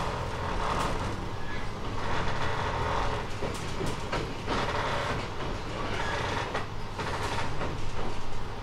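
JR East 719 series electric train running, heard from inside the car: a steady motor hum and rolling noise, with scattered sharp clicks from the wheels and rails.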